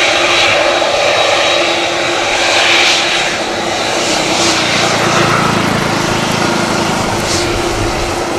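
Boeing 787-10 jet engines running: a loud, steady drone with a high whine that fades in the first half and a low rumble building near the end.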